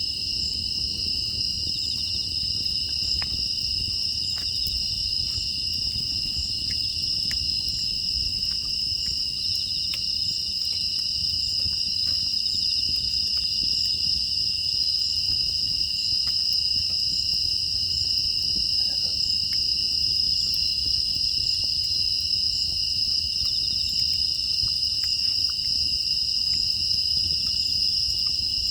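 Night chorus of crickets and other grass insects, a steady unbroken trilling at two high pitches, with faint scattered crackles underneath.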